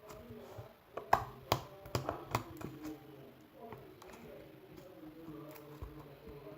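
Clear slime being squeezed and stretched by hand, giving a series of small sharp clicks and pops, most of them close together between about one and three seconds in.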